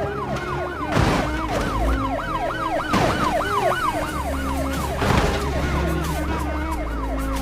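Emergency siren wailing in fast rising-and-falling sweeps, about three a second, over background music with a beat and a crash hit every couple of seconds.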